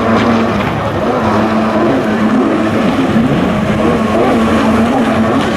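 Jet ski engines running steadily at high revs, with a dense hiss of water and spray over a constant engine tone.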